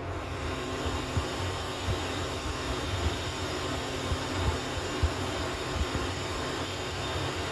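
Otis hydraulic elevator running, a steady mechanical hum with low rumbling and occasional soft thuds.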